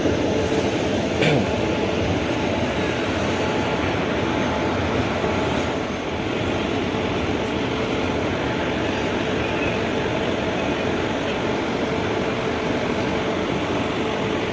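Passenger train on the adjacent track, a steady rumble of coaches with a constant hum underneath, and a single knock a little over a second in.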